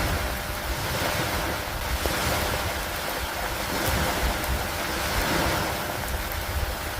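Steady rain with wind, as a continuous hiss that swells and eases every couple of seconds over a constant low rumble.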